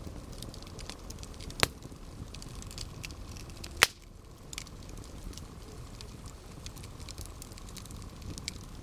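Campfire burning with a steady low rumble and light crackling, broken by two loud sharp pops of burning wood, about one and a half and four seconds in.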